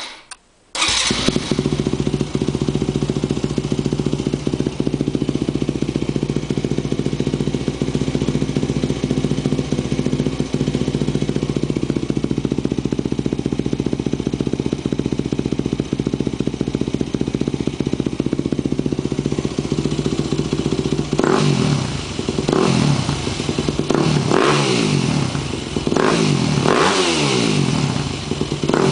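2007 Yamaha WR250F's single-cylinder four-stroke engine, loud through a White Brothers XCR exhaust with the silencer insert and spark arrestor taken out. It catches about a second in and idles steadily, then from about twenty seconds in is blipped repeatedly, the pitch rising and falling with each rev.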